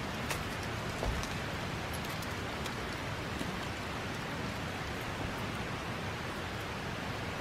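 Steady, even rushing noise outdoors, with a couple of light crunches in the first second or so.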